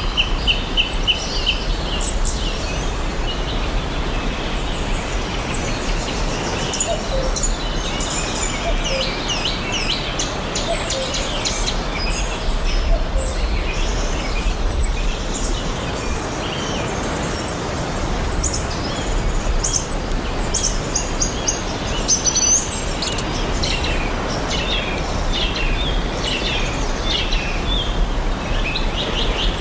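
Several songbirds chirping and singing, many short high notes overlapping throughout and a quick run of repeated notes at the start, over a steady hiss of background noise.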